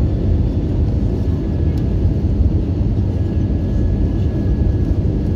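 Steady low rumble of an Airbus A321-200 heard from inside the passenger cabin: engine and airflow noise at an even level, with a faint thin steady whine above it.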